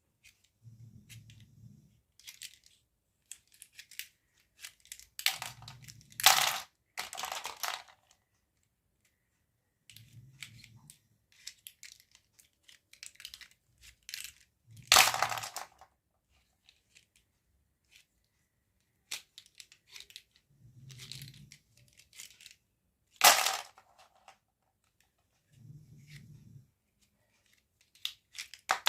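Toy packaging being handled and torn open: scattered rustling and crinkling with several loud, sharp tearing bursts.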